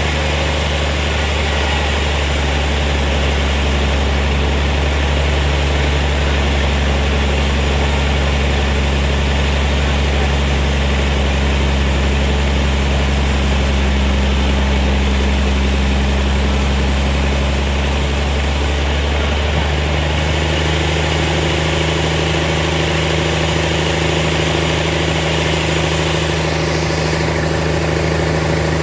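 An engine running steadily at an even speed, its note changing slightly about twenty seconds in.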